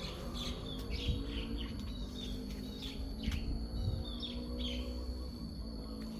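Small birds chirping: many short, quick calls repeated throughout, over a steady thin high whine and a faint low hum.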